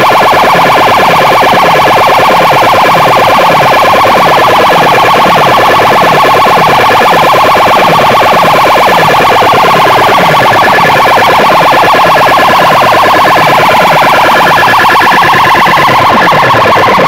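Very loud, distorted siren-like electronic sound blasting from a large competition loudspeaker rig. It pulses rapidly, with a low falling sweep repeating about once a second.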